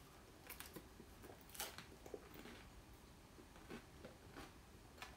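Near silence, with faint mouth sounds of chewing and a few soft, scattered clicks.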